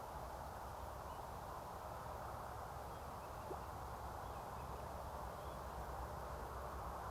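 Steady, faint outdoor background hiss, with a few faint, short, high bird calls.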